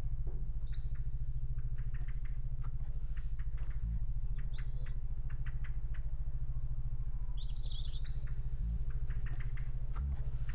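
Small birds chirping now and then over a steady low hum, with scattered faint clicks.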